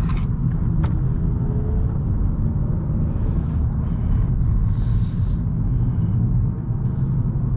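A 2018 Honda Accord's 1.5-litre turbocharged four-cylinder engine and tyres giving a steady, loud low rumble while the car is driven at speed through curves.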